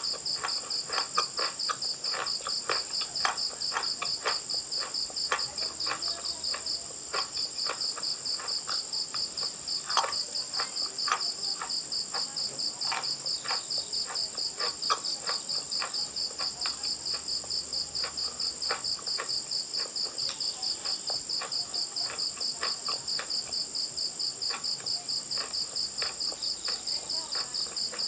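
Close crunching and chewing of chalk: irregular crisp crunches, several a second, some louder than others. Behind it runs a steady, fast-pulsing high trill typical of a chirping cricket.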